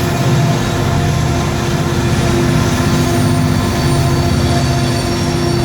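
Several BNSF diesel-electric freight locomotives passing close by, engines running: a loud, steady drone with a low, rhythmic throb and a few steady higher tones over it.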